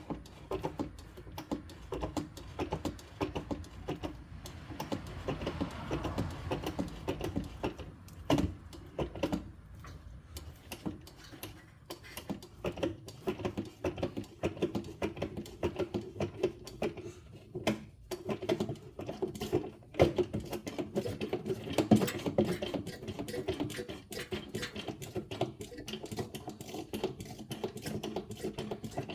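Hand-operated fluid pump screwed onto a bottle, worked in quick strokes, clicking and rattling as it pumps automatic transmission fluid into the transfer case.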